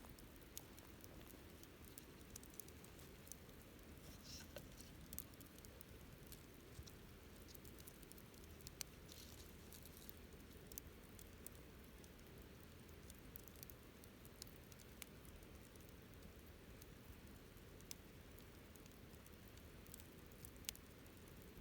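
Wood campfire crackling quietly: irregular small pops and snaps, a couple of them sharper, over a faint low steady background noise.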